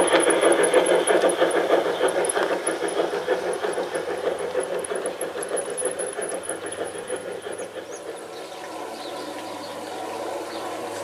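G scale model train running along the garden railway track, its wheels clattering rapidly and rhythmically over the rails; the clatter fades away over about eight seconds as the train moves off.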